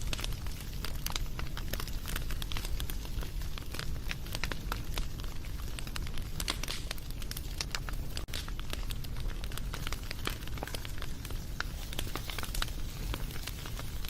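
Wood fire burning: many small sharp pops and crackles scattered irregularly over a steady low rumble of flames.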